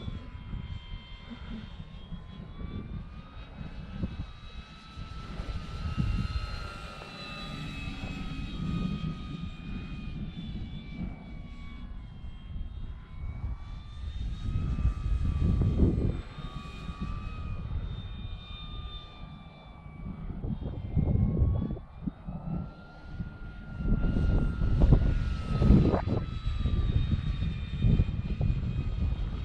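Electric brushless motor and propeller of a Dynam Hawker Hurricane V2 RC warbird whining in flight, its pitch gliding up and down as the plane passes and the throttle changes. Gusty wind buffets the microphone underneath.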